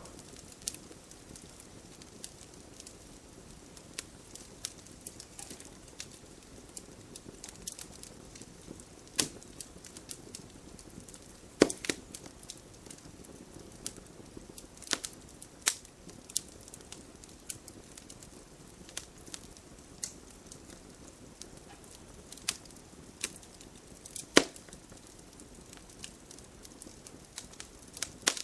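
Wood campfire crackling: irregular sharp pops and snaps over a soft steady rush of burning. Two much louder pops come a little before the middle and again near the end.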